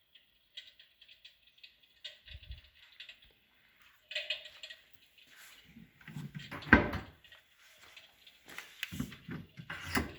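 Handling noises at a wooden fireplace cabinet: scattered light clicks and rustles, a sharp knock about two-thirds of the way in, and a few dull thumps near the end, typical of its push-to-open side door and shelf contents being handled.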